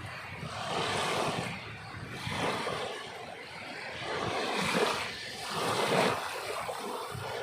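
Sea waves washing onto the shore, a rushing noise that swells and falls back about four times.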